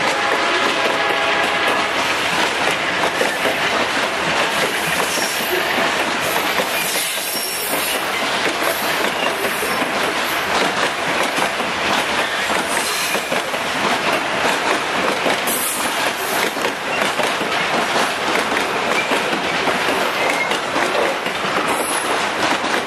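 Freight train's boxcars rolling past: a steady rumble of steel wheels on the rails with a clattering of clacks over the joints, and brief high wheel squeals now and then.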